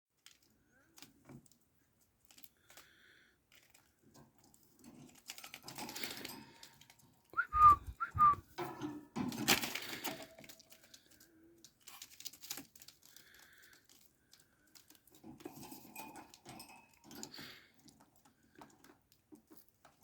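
Pet birds in an enclosure: two short whistled chirps about midway, among bursts of rustling and scattered small clicks from the birds moving about.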